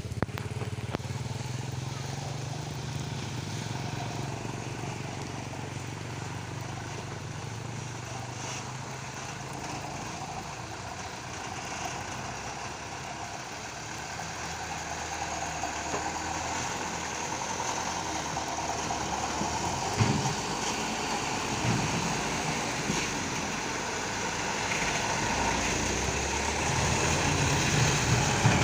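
A truck's diesel engine running steadily under a wide noisy hiss, growing gradually louder over the second half, with a few short knocks.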